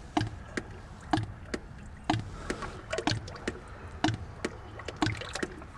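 Dark transmission fluid draining from a 1975 Ford 550 backhoe into a metal drain pan, splashing and glugging with irregular sharp ticks about twice a second over a faint steady pour.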